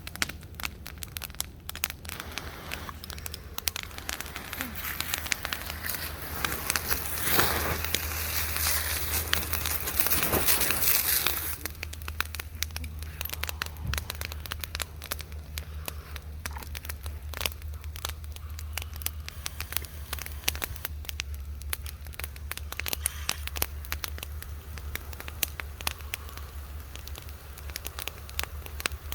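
Bonfire of dry Christmas trees burning, with dense, irregular crackling and popping throughout. A louder rushing flare-up lasts a few seconds about a quarter of the way in, then dies back to crackling.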